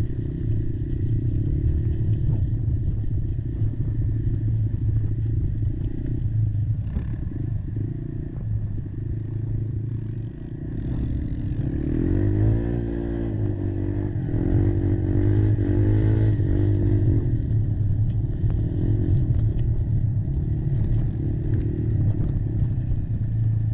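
Kymco Maxxer 300 quad's single-cylinder four-stroke engine running under way, its pitch rising and falling over and over as the throttle is worked about halfway through, with a few knocks from the machine over rough ground.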